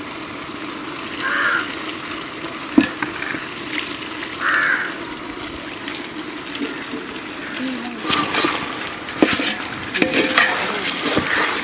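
Onion-tomato masala sizzling in ghee and oil in a large pot, a steady hiss, with a few sharp clicks in the second half.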